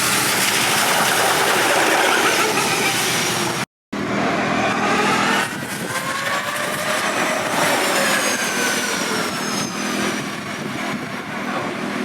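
Formula E electric race cars running at speed: a high-pitched electric motor and gearbox whine that rises and falls in pitch as the cars accelerate and brake, over tyre noise. The sound breaks off briefly about four seconds in.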